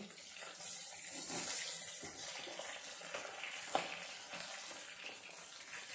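Shrimp deep-frying in a small pot of hot oil, a steady hiss and sizzle, with one short click a little under four seconds in.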